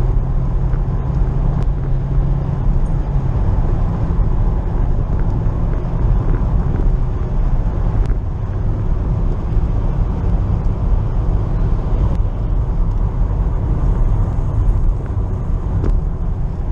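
Car on the move: a steady low rumble of engine and road noise heard from inside the cabin.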